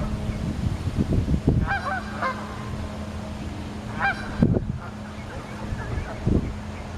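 Canada geese honking: a few short calls, clustered about two seconds in and again about four seconds in, over a steady low hum, with a few low thumps.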